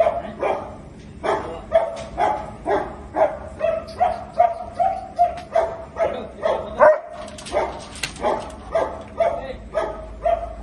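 German Shepherd barking over and over in an angry, agitated run, about two to three barks a second, with a brief pause about seven seconds in.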